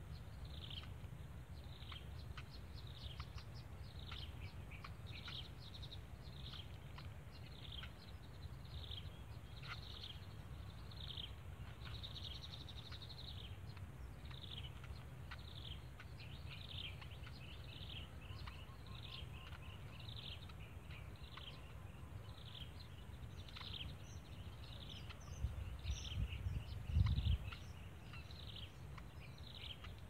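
A bird calling over and over, a little more than once a second, each call a short high note that falls in pitch, over a low rumble. A few low thumps come near the end.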